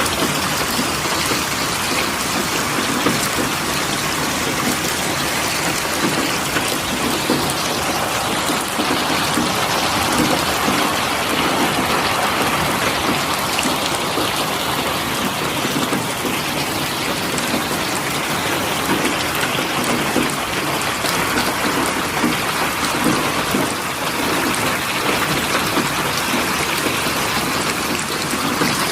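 Steady rainfall, an even rush of rain with many small drops pattering.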